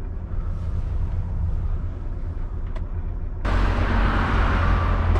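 Lorry's diesel engine running low and steady, heard from inside the cab. About three and a half seconds in, a louder steady rushing noise suddenly sets in over it.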